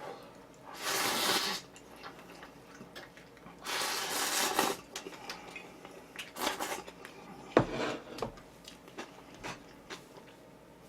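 Instant cup-ramen noodles being slurped: two long slurps of about a second each and a shorter third one, with chewing and light clicks of chopsticks against the cup in between. The slurping is strong enough that the eater is joked about as a ramen-eating vacuum cleaner.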